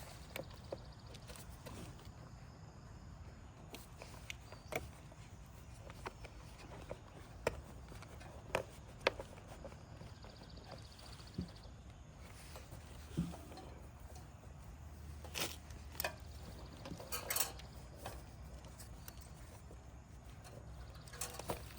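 Hand work on the generator during the carburetor replacement: scattered short clicks and knocks of tools and parts being handled, over a low steady hum.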